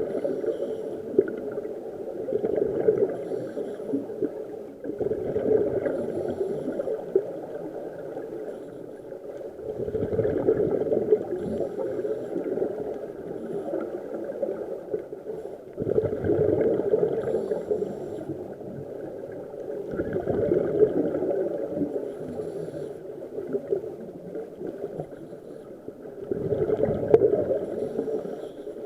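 Scuba diver breathing through a regulator underwater: exhaled bubbles gurgle up in a surge every four to six seconds, with the hiss of the breaths between.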